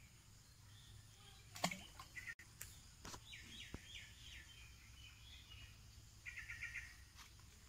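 Faint bird chirps over quiet outdoor background: a quick run of chirping notes about three seconds in and a short, rapid trill near the end. A single sharp click comes a little before two seconds in.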